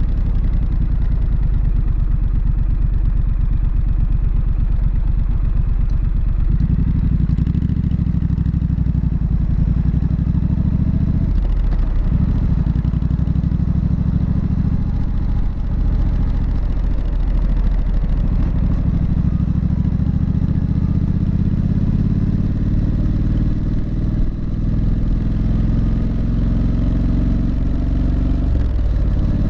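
Triumph Street Scrambler's 900 cc parallel-twin engine and exhaust running under way, its note steady with several short dips and changes in engine speed, about 6, 12, 17 and 24 seconds in.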